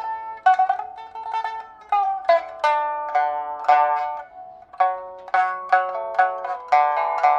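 Solo pipa playing: a run of plucked notes, each sharply attacked and ringing briefly, with phrases separated by short gaps.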